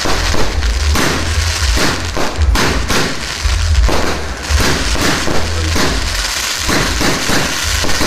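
Fireworks going off in a dense, continuous barrage: many overlapping bangs and crackles over a deep, rolling rumble of booms.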